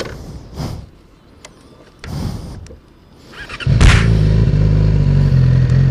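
A Yamaha R6's inline-four engine is started with the electric starter. It catches about three and a half seconds in and then idles loudly and steadily. A few small clicks and rustles come before it.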